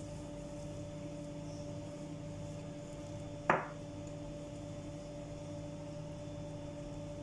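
Steady low electrical hum, with one sharp knock about halfway through.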